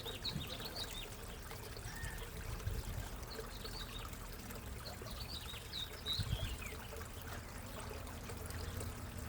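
Backyard koi pond water trickling and pouring steadily, with short high bird chirps in scattered bunches over it.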